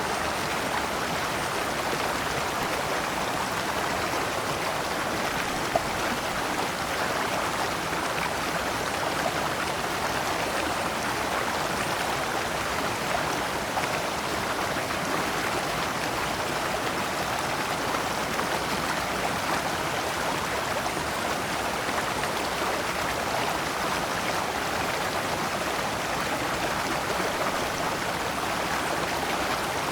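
Shallow stream flowing over rocks, a steady rushing and babbling of water spilling through small cascades between stones.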